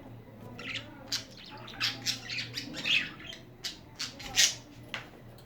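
Pet budgerigars chattering and squawking: a string of short, harsh, high calls, the loudest about four and a half seconds in.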